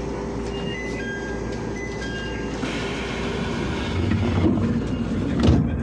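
E127-series electric train standing at a platform with a steady equipment hum and a few short high beeps. Then a rising rush and a sharp thump about five and a half seconds in, as the doors slide shut before departure.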